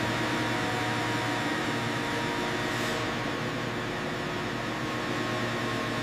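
Steady machinery hum with an even hiss, several constant tones held throughout, typical of factory machines or ventilation running.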